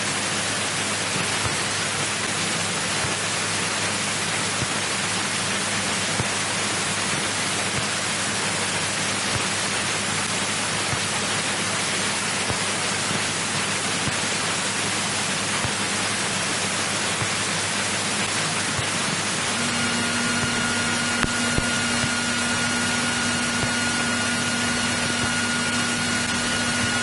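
Cessna 172E's six-cylinder Continental O-300 engine and propeller running steadily at low power, heard inside the cabin as an even rushing drone. About twenty seconds in, a thin steady high whine joins it.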